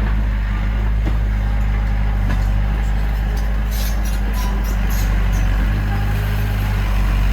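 Heavy diesel engine of earthmoving machinery running steadily under load, with a few faint knocks over it.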